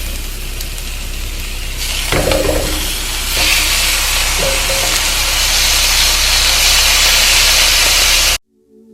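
Chicken wings sizzling in hot oil in a frying pan with sautéed onion and garlic, a steady loud hiss that grows louder about two to three and a half seconds in as the wings go in, with a brief clatter about two seconds in. The sizzle cuts off abruptly near the end and soft music starts.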